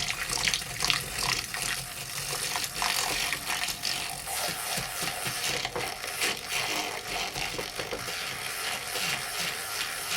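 Handheld electric foamer (drink frother) running steadily in a mixing glass, blending brown sugar into lime and pineapple juice: a constant motor whine over rattling, splashing liquid.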